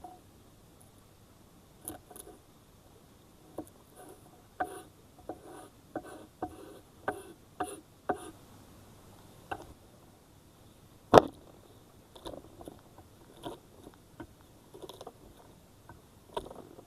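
Irregular light taps and clicks from handling cooking gear during food preparation, with one sharp, much louder knock about eleven seconds in.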